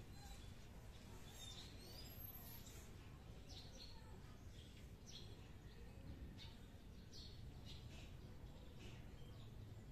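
Near silence: a low steady background hum with scattered faint, short high chirps from birds.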